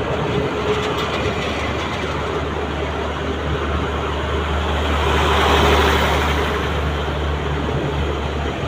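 Passenger train carriages rolling slowly past close by as the train pulls out of the station: a steady rumble of wheels on rail over a low hum, swelling to its loudest a little past the middle.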